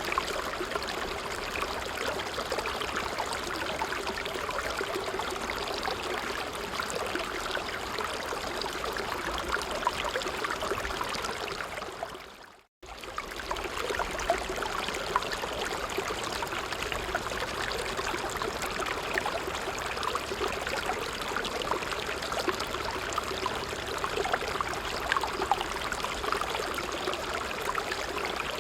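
A brook flowing over stones, a steady babble and trickle of running water. About halfway through it fades away to silence for a moment, then comes straight back.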